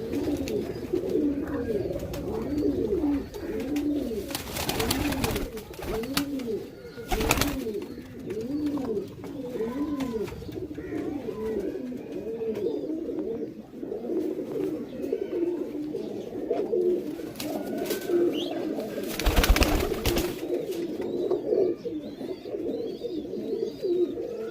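Several domestic pigeons cooing continuously, their low rising-and-falling coos overlapping. A few short bursts of noise break in, the loudest about two-thirds of the way through.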